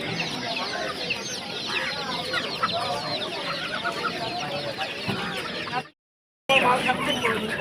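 A dense chorus of many caged birds calling and chirping at once, with short high calls overlapping continuously. The sound cuts out completely for about half a second a little after three-quarters of the way through, then comes back louder.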